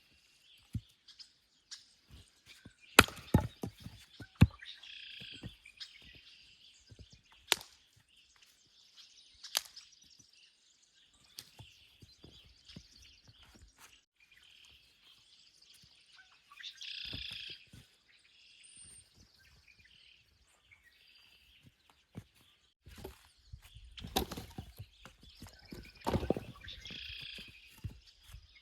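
Songbirds singing and chirping in the woods, with scattered sharp knocks and clicks, which grow denser with rustling near the end.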